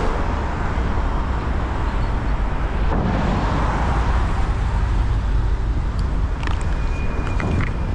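Steady rushing wind noise on an action camera's microphone during a bicycle ride, with a deep rumble and city traffic behind it. A few light clicks and a short thin whine come near the end.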